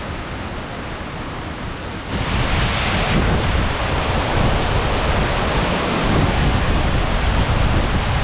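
Waterfall's falling water giving a steady rushing roar, which grows louder about two seconds in.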